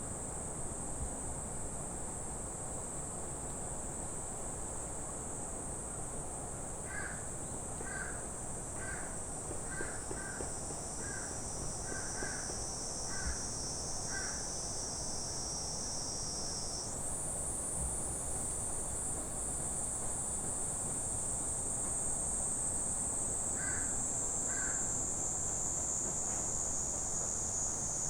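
Steady high-pitched chorus of summer insects, whose pitch shifts about two-thirds of the way through. A bird calls about nine times, roughly once a second, from about a quarter of the way in, then twice more near the end.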